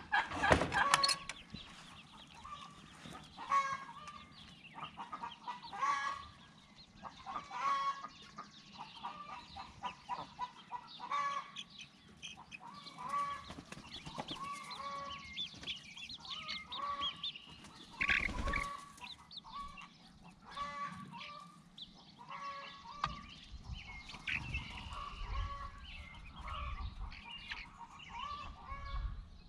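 Chickens clucking with a steady run of short, repeated calls, with a single knock about eighteen seconds in.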